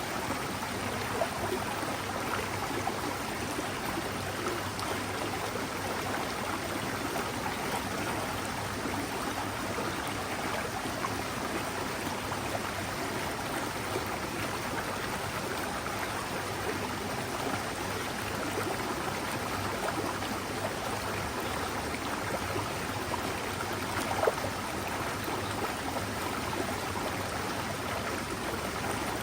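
Mountain stream flowing steadily, with one brief louder splash near the end.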